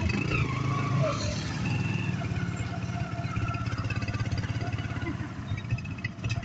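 Motorcycle engine running steadily during a ride, a low pulsing drone.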